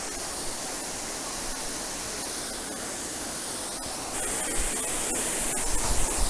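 Waterfall: a steady rush of falling water that grows louder about four seconds in, with a few low thumps near the end.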